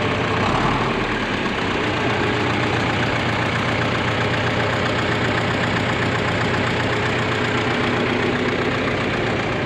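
John Deere 3020 tractor's four-cylinder diesel engine running steadily.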